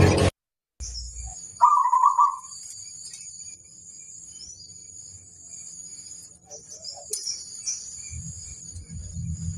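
Zebra dove (perkutut) cooing: one loud call about two seconds in, then a few fainter calls later, over a steady high shrill background and a low hum near the end.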